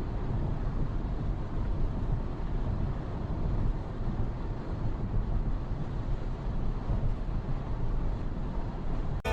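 Steady rumble of a vehicle driving: engine and road noise, with some wind noise.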